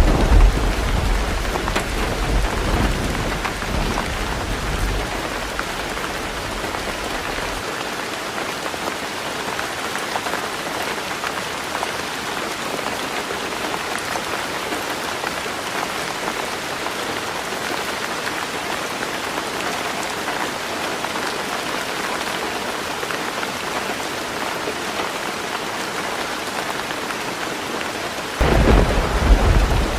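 Heavy rain falling steadily on a tin roof. A low thunder rumble fades away over the first several seconds, and another starts abruptly near the end.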